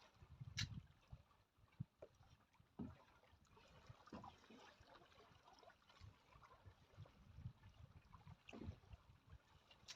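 Near silence: faint water lapping against a small drifting boat's hull, with a few soft scattered knocks.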